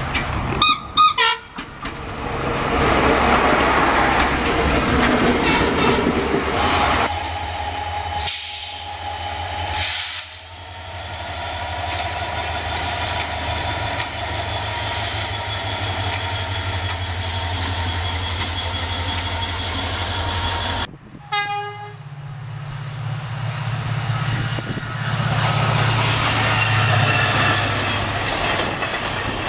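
Trains passing on the line. A horn sounds briefly about a second in, a diesel locomotive's engine runs with a steady low hum through the middle, and near the end passenger coaches roll past with wheel noise.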